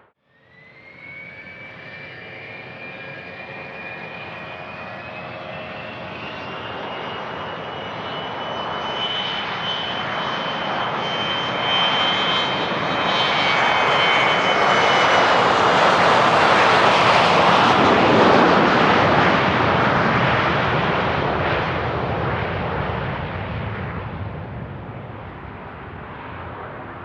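Business jet's turbofan engines passing close by on the runway: a whine climbs steadily in pitch over the first dozen seconds, then the engine roar grows loudest about two-thirds of the way through and fades away.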